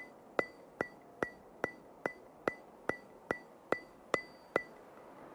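Steady mechanical ticking, about two and a half sharp ticks a second, each with a brief high ring; the ticking stops near the end.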